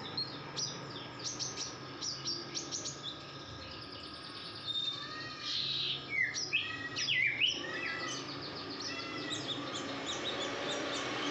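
Female konin songbird in breeding condition calling persistently: quick runs of short, high chirps, with a few louder, lower swooping notes around the middle.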